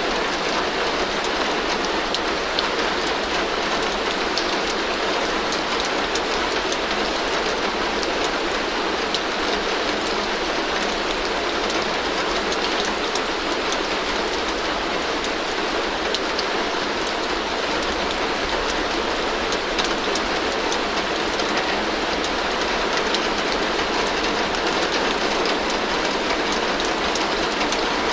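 Heavy rain falling steadily on a tin roof: a dense, even patter of drops on the metal.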